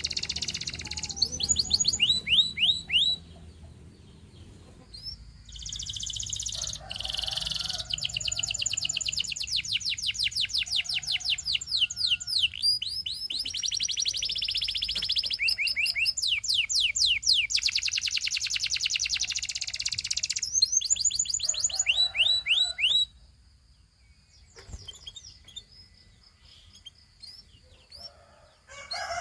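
Domestic canary singing: rapid rolling trills of repeated down-sweeping notes, broken by a short pause about three seconds in and falling to faint, scattered notes for the last several seconds.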